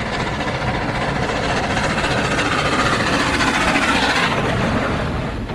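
A train running fast, its rumble and rail noise building to a peak about three to four seconds in, then easing off.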